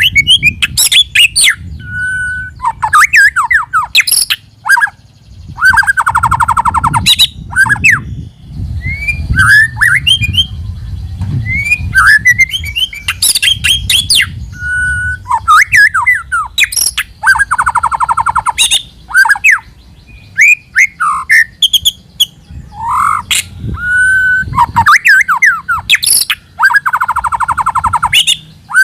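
White-rumped shama singing loudly: a varied song of whistled up-and-down phrases, harsh buzzy notes and fast trills, with a similar trilled phrase coming back about every ten seconds.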